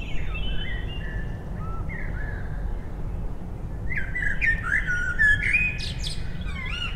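Birds chirping: many short whistled calls sliding up and down in pitch, busier from about four seconds in, over a low steady rumble.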